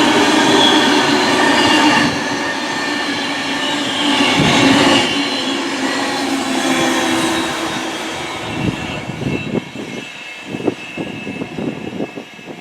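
A train passing close by and then running away, its steady running noise with held tones fading, followed by a series of sharp wheel clicks over the rail joints as it recedes.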